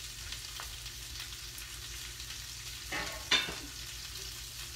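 Green beans frying in bacon grease in a skillet, a steady sizzle, with a short clatter about three seconds in.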